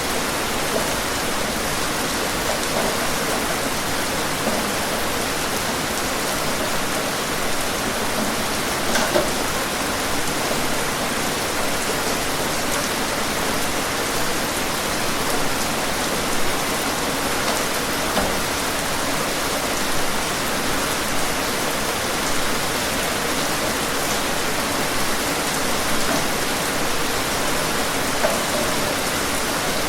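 Steady rain falling on a surface, an even hiss with scattered louder drops spattering now and then.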